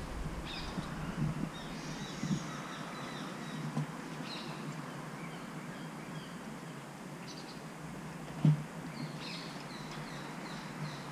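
Birds calling outdoors in short, repeated chirps, with a few low thumps, the sharpest about eight and a half seconds in.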